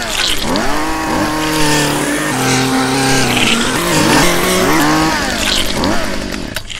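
Chainsaw engine revving again and again, its pitch swinging up and dropping back about once a second, tailing off near the end.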